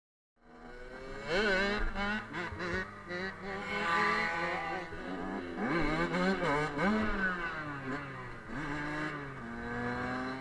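Small 50cc motorbike engines, more than one at once, revving up and down repeatedly in quick blips and longer climbs.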